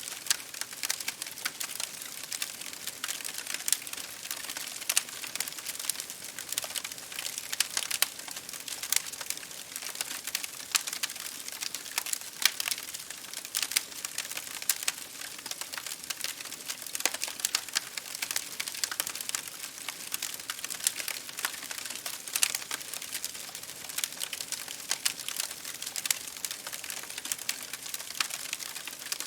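Campfire crackling: many irregular pops and snaps of burning wood over a soft steady hiss.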